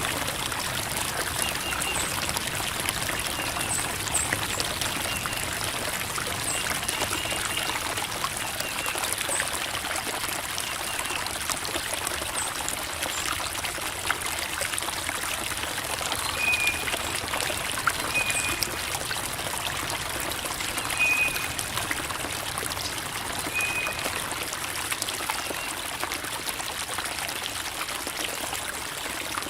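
Creek water babbling and trickling over rocks, a steady even rush. Short high chirps recur every couple of seconds above it.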